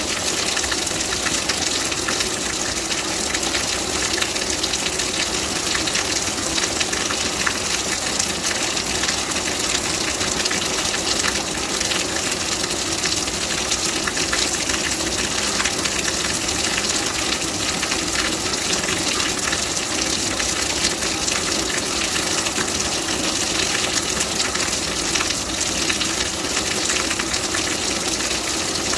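Steady rain: a dense, even hiss of water with countless small drop ticks, unchanging throughout.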